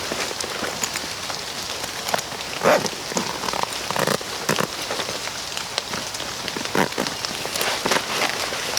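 Steady rain falling, with louder single drops striking close by at irregular moments.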